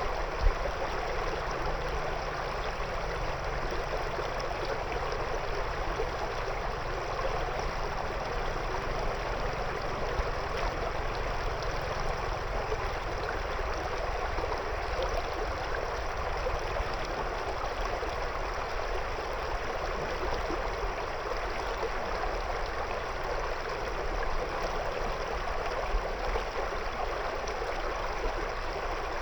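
A shallow river flowing steadily over stones, a continuous rushing and burbling of water with a few brief louder splashes.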